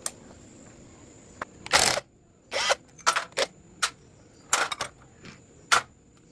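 A series of irregular sharp mechanical clicks and knocks, about ten, with a longer rasping rush shortly before two seconds in.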